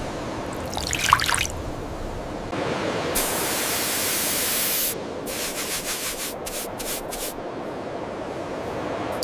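Water spraying at the artifact: a steady hiss of about two seconds, then several short squirts, with a few quick drip-like plinks about a second in.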